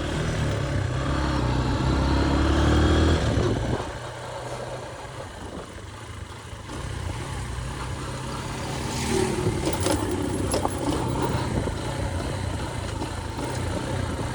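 Motorcycle engine running under way, loud and rising in pitch as it pulls for about four seconds, then easing off and running quieter.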